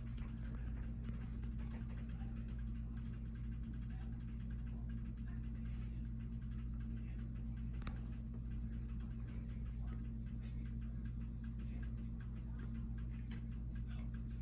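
Casablanca Victorian five-blade ceiling fan running: a steady motor hum with rapid, continuous mechanical ticking.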